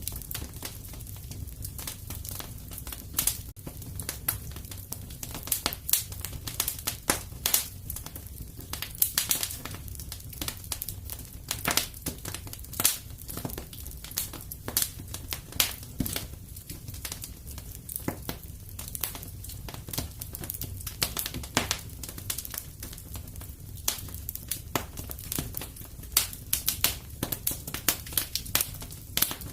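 Fire in a fireplace crackling, with many irregular sharp pops and snaps over a steady low rumble.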